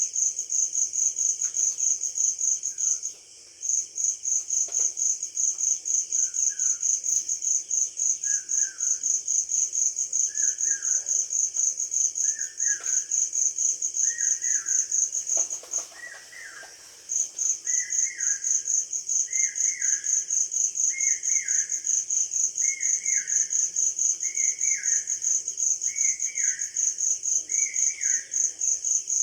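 Cricket chirping in a fast, even pulse, high-pitched and loudest throughout, stopping twice briefly. A bird repeats a short downward-slurred call every second or two, starting a few seconds in and growing louder toward the end.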